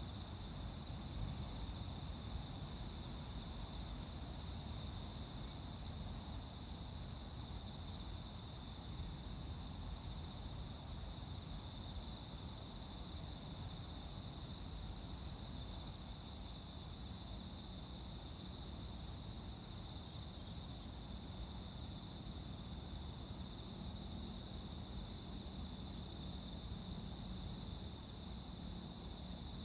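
A continuous chorus of singing insects, an unbroken high trilling at two pitches, over a low steady rumble.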